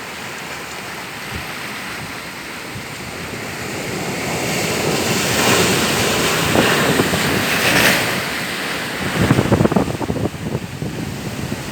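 Sea waves washing in, the surge building to a peak midway and easing off, with wind on the microphone.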